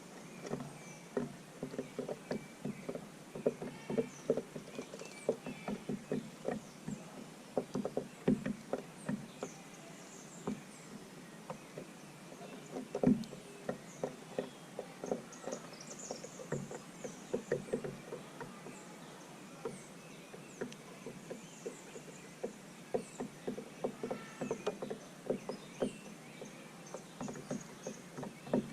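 Small birds pecking at seed on a feeder: irregular clusters of quick light taps and knocks, with faint high chirps of birds over them.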